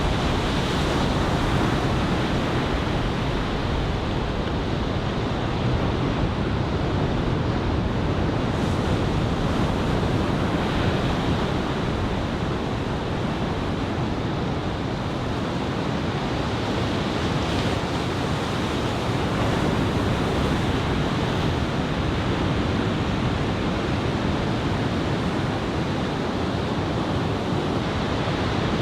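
Ocean surf from head-high typhoon swell breaking steadily on a beach, a continuous rushing wash, with wind on the microphone.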